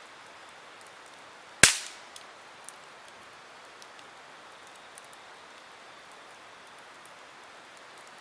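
Wood campfire burning with a soft steady hiss, one loud sharp pop of crackling wood about a second and a half in, then a few small crackles.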